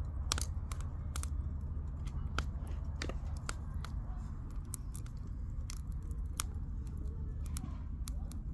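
Firewood burning in a campfire, crackling with irregular sharp snaps and pops over a steady low rumble.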